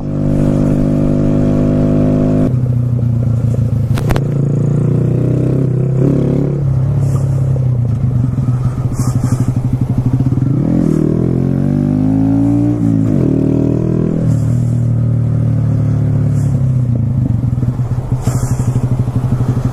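Motorcycle engine running at a steady speed, with its pitch rising and falling once near the middle. There is a single sharp click about four seconds in.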